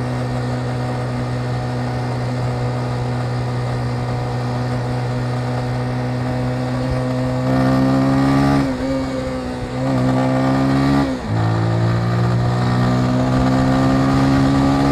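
Motorcycle engine running at a steady cruise, then pulling harder about halfway through, with two short breaks in the sound. After the second break it comes back lower in pitch and climbs again, as when the rider shifts up a gear while accelerating.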